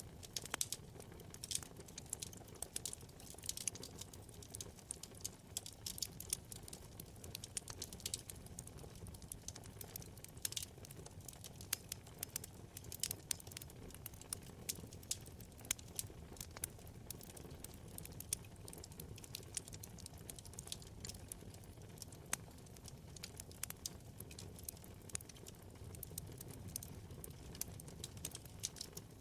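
Wood fire burning in a fireplace, with many small irregular crackles and pops over a low steady rumble of the flames.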